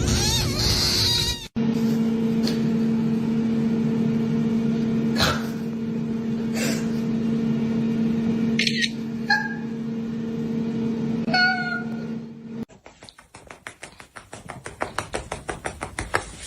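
Domestic cats meowing in several short calls that bend in pitch, over a steady hum in the middle part. Near the end comes a quick, even run of ticks.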